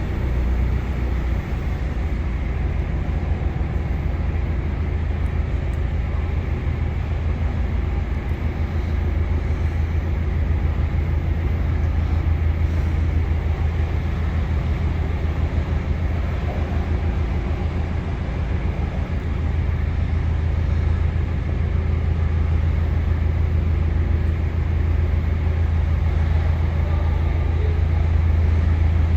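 A narrowboat's diesel engine running steadily at cruising speed inside a canal tunnel, giving a low, even drone.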